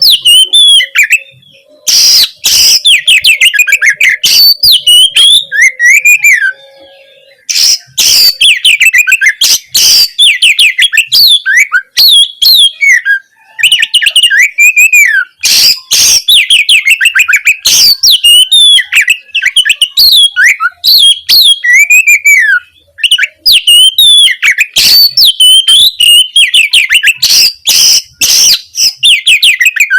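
Oriental magpie-robin (kacer) singing a loud, fast, varied song. Rapid chattering runs alternate with swooping whistled notes that rise and fall, with a few brief pauses between bursts.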